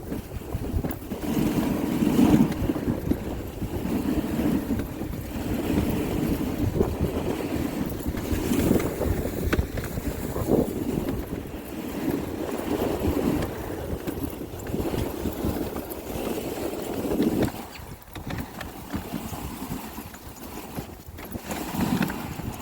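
Wind buffeting the microphone in uneven gusts, a low rumbling rush that swells and fades.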